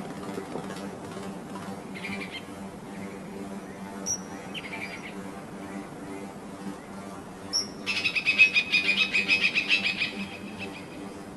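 Small birds chirping: a few short separate chirps, then a fast run of chirps lasting about two seconds near the end, over a faint steady low hum.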